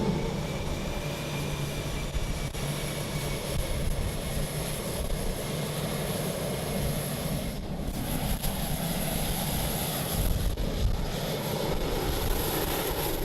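Aircraft engines running steadily: a continuous loud noise with a low hum and a thin high-pitched whine.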